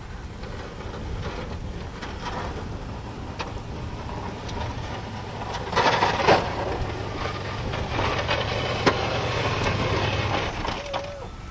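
Vehicle running on a snowy, slushy road: a steady low engine rumble under tyre and slush noise, with a few sharp knocks.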